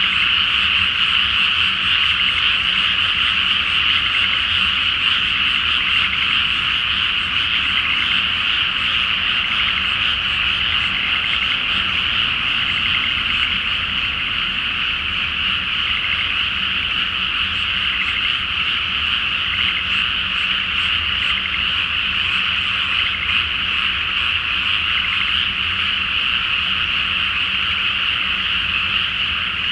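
A dense, continuous chorus of many frogs calling together from a flooded rice paddy, a steady high-pitched trilling mass with no breaks.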